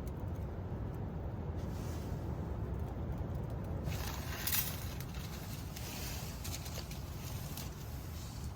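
A steady low rumble, with a short rustling hiss about four seconds in.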